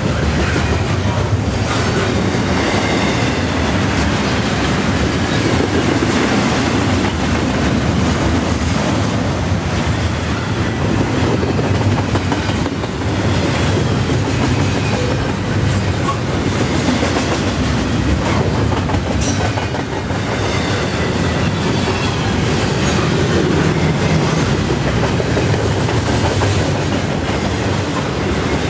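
Double-stack intermodal well cars of a freight train rolling past: a steady, loud rumble of steel wheels on the rails, with occasional clicks.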